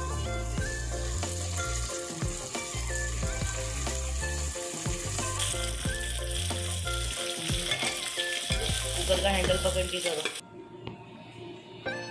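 Onions, garlic and green chilies sizzling in hot oil in a pressure cooker, stirred with a spatula, with background music under it. The sizzling stops abruptly about ten seconds in.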